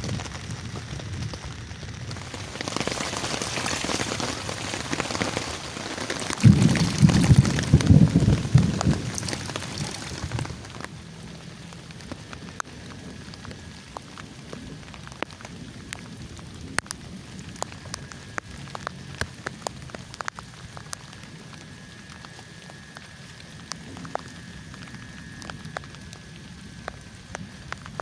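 Rain falling, heavy for the first ten seconds or so with a loud low rumble about seven seconds in, then easing to a lighter patter of separate drops ticking down.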